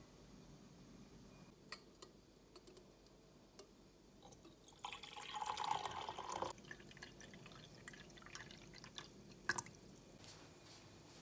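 Liquid being poured for about a second and a half near the middle, between small scattered clicks and a couple of sharper ticks later on.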